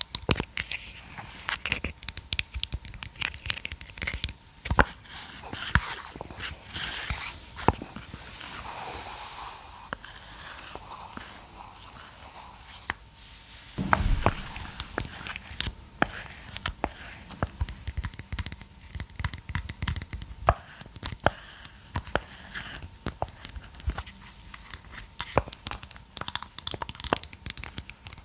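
Close-miked ASMR handling sounds: crinkling and rustling with many quick, irregular clicks and taps, and a louder knock about halfway through.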